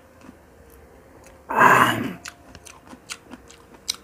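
Close-up wet chewing of pineapple, with sharp mouth clicks that come more often in the second half. About a second and a half in there is one loud breathy burst lasting about half a second.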